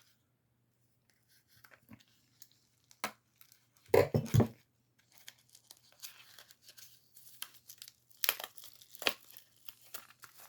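Packaging being torn and crinkled open by hand, with a louder rip about four seconds in and scattered crackles and a few sharp clicks after it.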